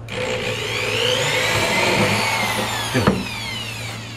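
Electric drill boring a pilot hole through a plastic cooler wall. Its whine rises and then falls in pitch, with a short loud sound about three seconds in, after which it runs quieter.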